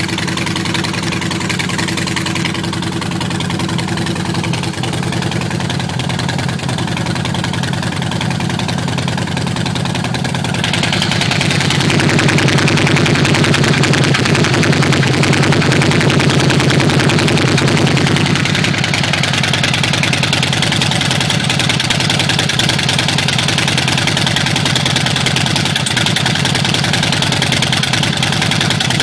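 2009 Harley-Davidson Night Train's V-twin idling through Vance & Hines Short Shots exhaust with a heavy breather intake, running noticeably louder and faster for several seconds about midway before settling back to idle.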